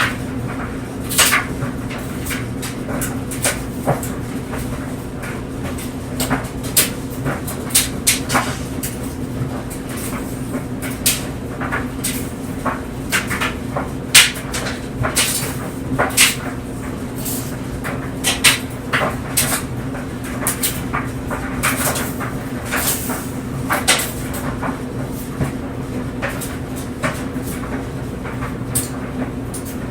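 Clothes dryer running with clothes tumbling in the drum: a steady hum under irregular clicks and knocks as the load falls.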